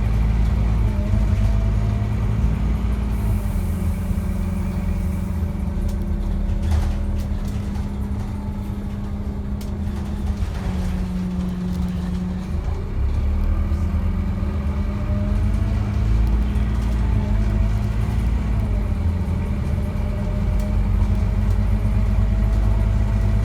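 Scania N230UD double-decker bus running on the road: a low engine drone with a whine that rises and falls with speed. It eases off about halfway through, then pulls away and builds again.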